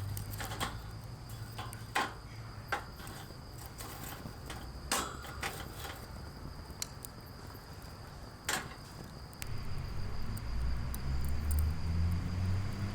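Insects chirring in a steady high tone, with a handful of sharp clicks or knocks scattered through, the loudest about two and a half seconds from the end; a low rumble rises in the last few seconds.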